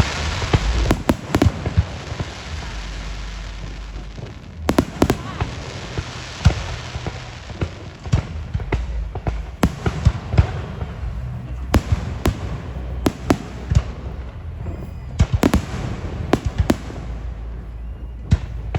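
Fireworks display: a string of sharp bangs from bursting shells, irregularly spaced throughout, with crackling in the first few seconds.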